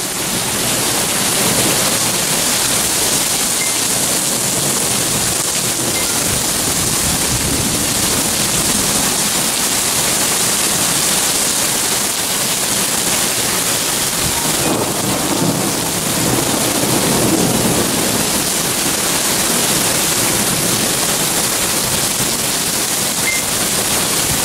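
Torrential thunderstorm downpour: a dense, steady hiss of rain pouring down and splashing on surfaces, with small hail mixed in.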